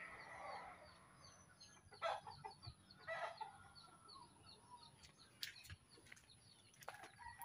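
Faint, short bird calls, likely fowl, about two and three seconds in, over a nearly quiet outdoor background.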